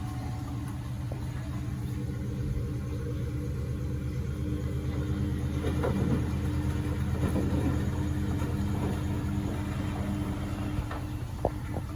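Beko WMB71642W washing machine in its final rinse: the drum motor hums steadily as it turns the drum, with laundry and water swishing, busiest around the middle, and a few light clicks near the end.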